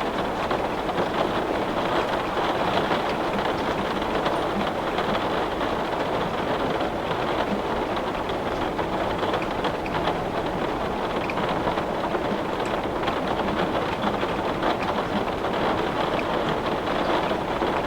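Heavy rain beating steadily on a window pane, a dense even hiss with scattered small drop ticks.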